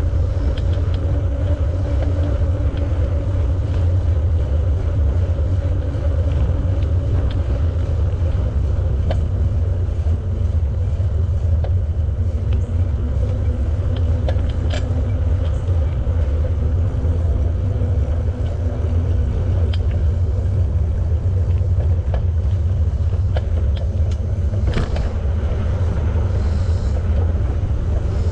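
Steady low rumble of wind on the microphone and a bicycle's tyres rolling along a paved path while riding, with a few light clicks.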